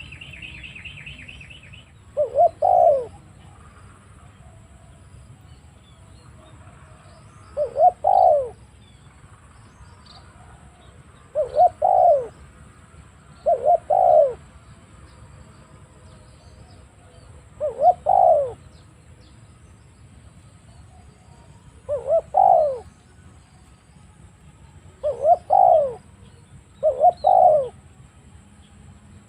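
Spotted dove cooing: eight two-part coos a few seconds apart, each a short note running into a longer one. A brief buzzing trill sounds at the very start.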